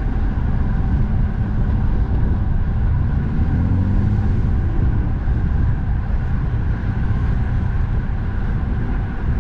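Steady low rumble of strong wind on the microphone mixed with passing road traffic, heard from a moving bicycle. A vehicle's engine note rises briefly about four seconds in.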